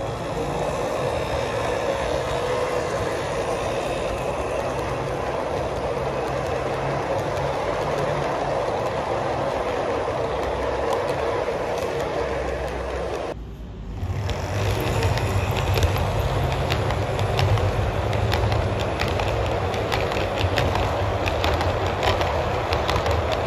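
A train running on track with a steady running noise, which cuts off suddenly about halfway through and resumes with rapid clicking of wheels over rail joints.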